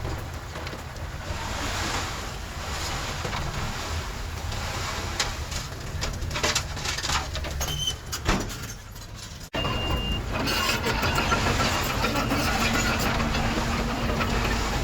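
Heavy diesel earthmoving machinery running. There is an abrupt break about two-thirds of the way through, after which the engine sound resumes slightly louder with a steady hum.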